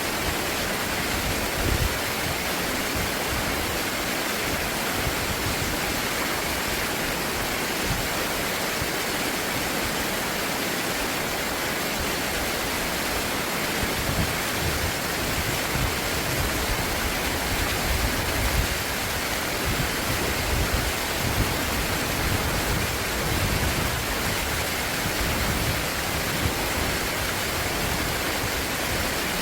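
Stream water rushing steadily over rocks, an even hiss with no pauses. Irregular low rumbles join in from about halfway through.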